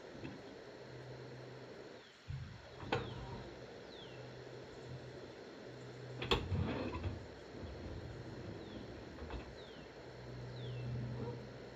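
A few scattered metal knocks and clanks from work on a skid steer, with two sharp ones about three and six seconds in, the second the loudest. A small bird gives short falling chirps several times over a steady low hum.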